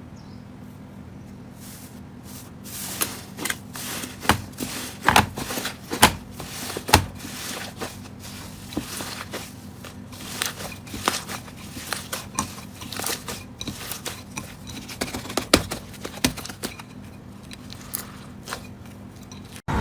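Slime being squeezed and poked, giving an irregular run of sharp clicks and small pops, thickest a few seconds in, over a faint steady hum.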